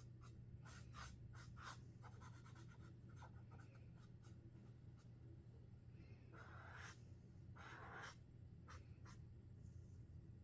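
Sharpie Creative Marker tips drawn across paper in a run of short, quick strokes and dabs, with two longer strokes about six and seven and a half seconds in. A steady low hum lies underneath.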